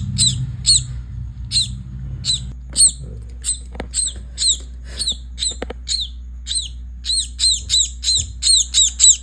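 A small maya bird calling over and over in short, sharp chirps, each one a quick downward-bending note, about two or three a second. The calls come faster and louder near the end.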